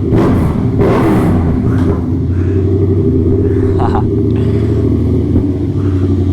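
Yamaha FZ-07 motorcycle's parallel-twin engine running at a steady idle.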